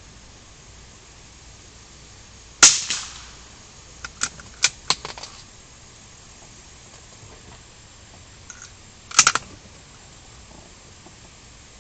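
A single rifle shot, sharp with a short ringing tail, followed about a second and a half later by a quick run of five or six sharp clicks, and another short sharp burst of sound near the end.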